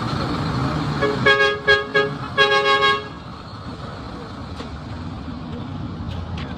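A vehicle horn honking three times about a second in, two short toots and then a longer one, over steady street traffic noise.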